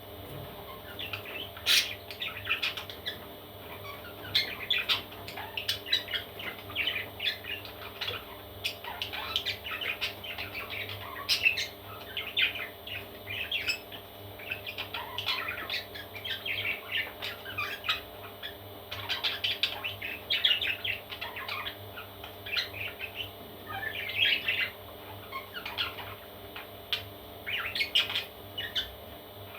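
Parrot chicks calling: a continuous run of short, high chirps and squawks, several overlapping at a time, over a faint steady hum.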